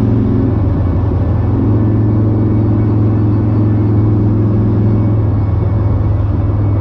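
Kawasaki Vulcan motorcycle cruising at a steady speed, its engine and the road making a loud, even low rumble.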